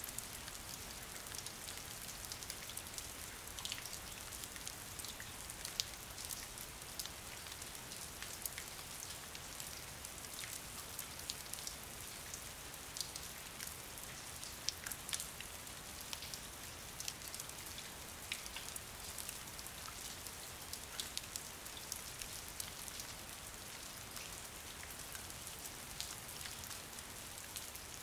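Steady rain falling, with many individual drops ticking sharply and irregularly over an even hiss.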